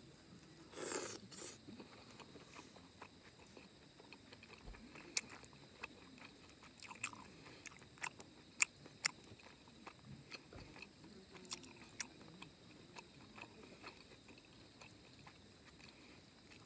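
A person chewing a mouthful of steak, with scattered sharp clicks from mouth and chopsticks. A short breathy rush about a second in.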